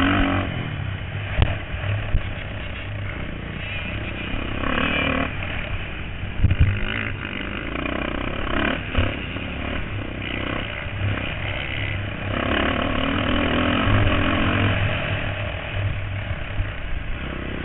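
Motocross dirt bikes racing, their engines revving up and down and swelling and fading as riders pass in waves, over a steady low rumble. A few sharp knocks come in the first seven seconds.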